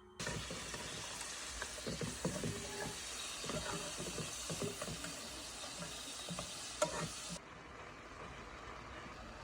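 Food sizzling in a pan, with a utensil stirring and tapping. The hiss starts suddenly and the high sizzle drops away about two seconds before the end.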